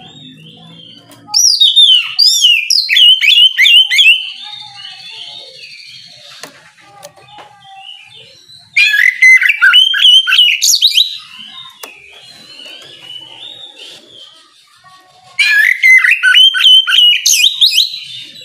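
Oriental magpie-robin (kacer) singing in the loud, open 'ngeplong' style: three bursts of rapid, high whistled and warbled phrases a few seconds apart, with softer twittering between them.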